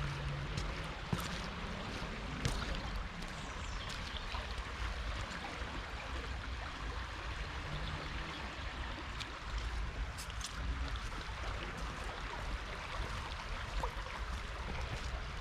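Floodwater of the swollen River Cole rushing past in a steady roar, with a deep rumble underneath.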